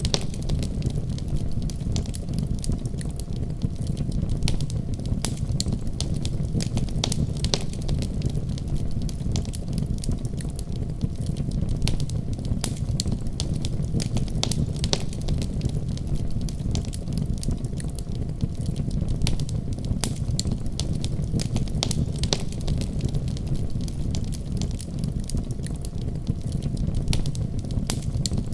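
Wood fire crackling: frequent sharp pops and snaps at irregular intervals over a steady low rumble of the flames.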